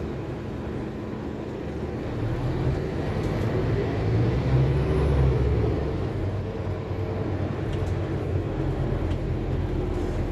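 Interior ride noise of a Scania K280UB4 city bus: the diesel engine's low rumble with road noise. It builds from about two seconds in to a peak around the middle as the bus pulls under power, then eases off.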